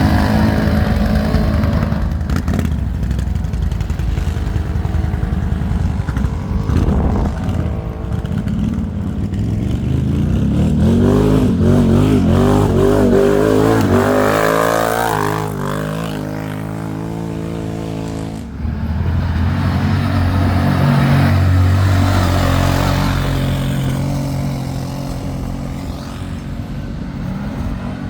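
ATV engine running under way, its pitch climbing as it revs up through the middle, then dropping abruptly about two-thirds of the way in and settling back to a steadier, lower drone.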